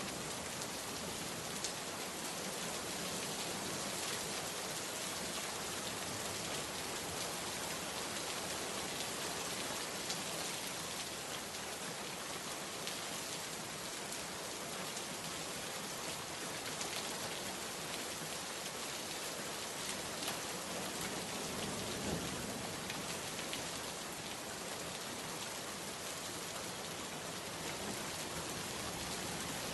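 Steady heavy rain falling on a surface, with individual drops ticking now and then and a brief faint low rumble about two-thirds of the way in.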